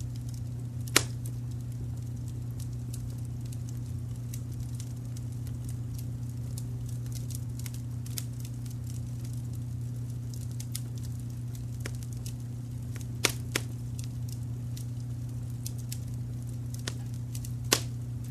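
Wood fire crackling in a fireplace, with frequent small ticks and a few louder sharp pops: one about a second in, two close together about 13 seconds in, and one near the end. Under it runs a steady low rumble of brown noise.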